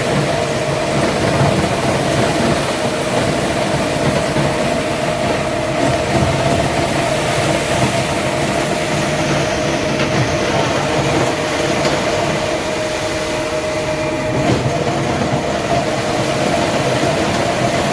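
Heavy machinery running steadily: a loud, continuous mechanical drone with a constant whine over it.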